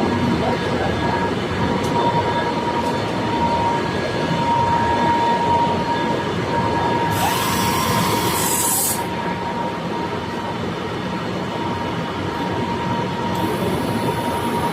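Steady running noise of glass tempering line machinery, with a thin steady whine. About seven seconds in, a loud hiss lasts about two seconds.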